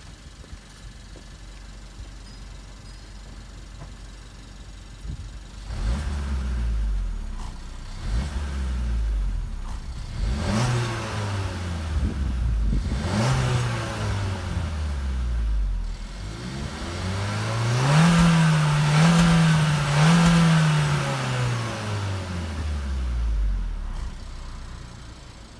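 Suzuki Swift Sport ZC33S's 1.4-litre turbocharged four-cylinder (K14C) through its stock exhaust, idling quietly, then revved in several short free-revs. A longer, higher rev with three quick blips follows, and the engine falls back to idle near the end.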